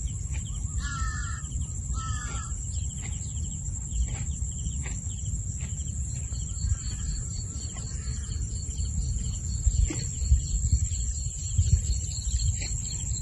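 Rice-field ambience: a steady high insect drone with a faster pulsing insect trill beneath it, and a low rumble underneath. Birds call over it, with two harsh calls about one and two seconds in and scattered short chirps after.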